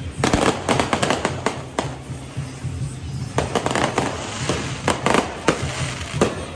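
Fireworks and firecrackers going off in quick clusters of sharp bangs and crackles, one burst of reports about a second long near the start and a longer run in the second half, with music playing underneath.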